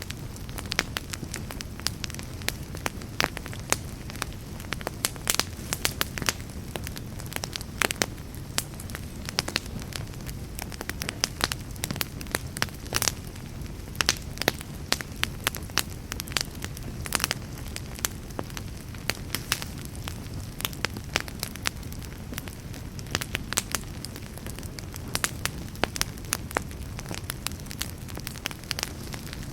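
Fire in a fireplace crackling and popping, with many sharp, irregular snaps over a steady low rumble of burning.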